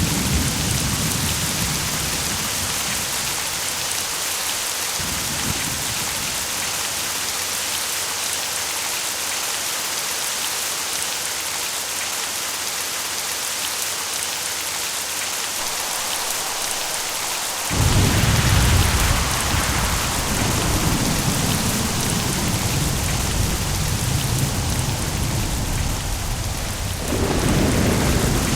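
Steady heavy rain with thunder. A rumble dies away over the first few seconds, a sudden loud thunderclap breaks in about two-thirds of the way through and rolls on, and another roll of thunder starts near the end.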